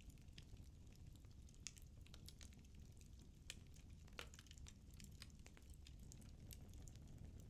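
Faint crackling of firewood burning in a fireplace: irregular small pops and snaps over a low, steady rumble.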